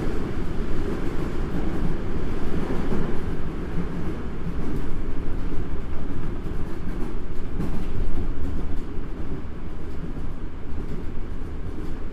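Toei Asakusa Line 5300-series subway train running between stations, heard from inside the car beside the crew cab: a steady rumble of wheels, motors and track that rises and falls only a little.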